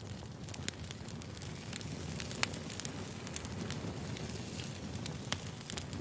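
Firewood burning: a steady low rumble of flames with frequent irregular sharp crackles and pops, two louder pops about two and a half seconds in and near the end.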